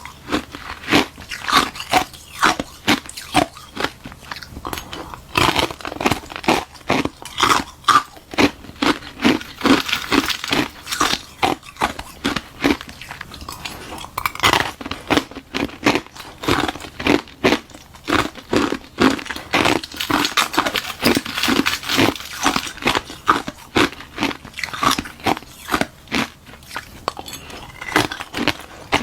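Close-up crunching of ice being bitten and chewed, a hollow balloon-frozen ice shell packed with frozen milk tea, with sharp cracks coming in quick, irregular succession throughout.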